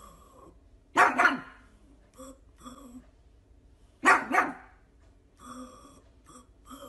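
Pug barking in short double barks, one pair about a second in and another about three seconds later, each pair sounding like "poo poo".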